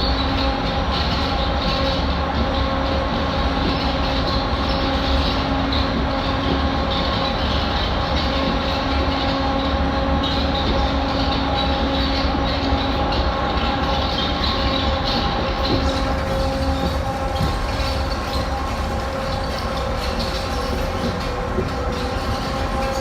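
Electric train running steadily: a continuous rumble with a hum of several steady tones from the drive.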